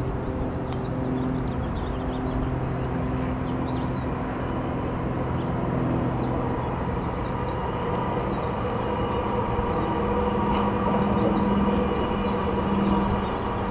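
A steady engine-like drone with several held tones that shift in pitch about halfway through, with faint high chirps and a few sharp clicks.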